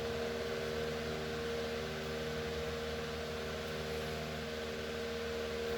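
Electric fan running with a steady hum and whirring hiss.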